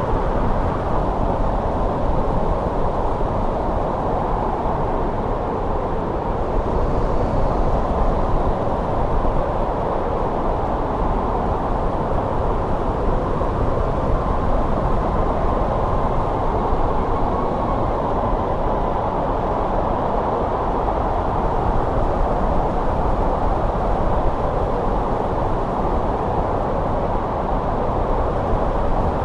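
Steady winter wind blowing, a continuous low rushing noise with no gusts or breaks.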